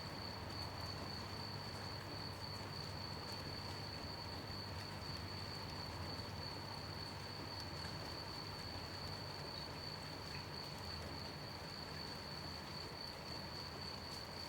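Crickets chirping in a steady high-pitched trill over an even hiss of gentle rain, with faint drip ticks.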